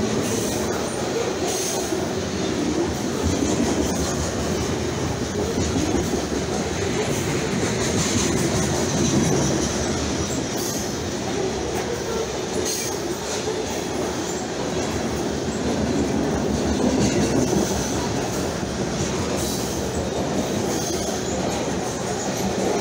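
Freight train of covered hopper wagons rolling past at close range: a steady rumble of steel wheels on the rails.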